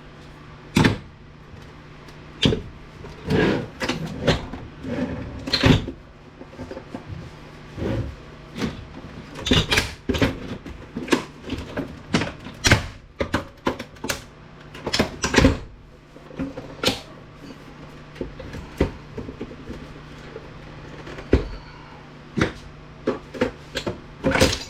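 Irregular sharp snips and clicks of wire cutters cutting through the wiring inside an APC battery backup unit, with a low steady hum underneath.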